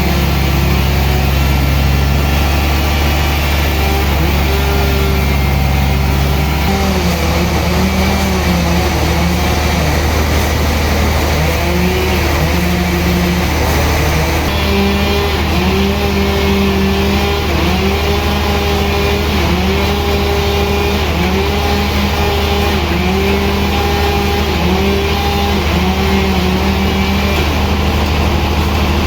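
Sawmill machinery running steadily, its engine-like pitch dipping and recovering about every second and a half.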